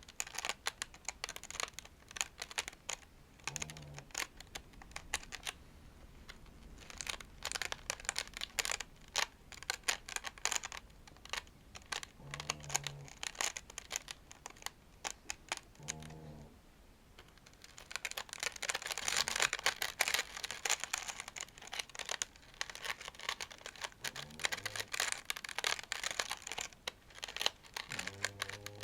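A toy plate being scratched and brushed in quick, dense strokes. About two-thirds of the way through there is a short pause, after which the strokes come denser and louder.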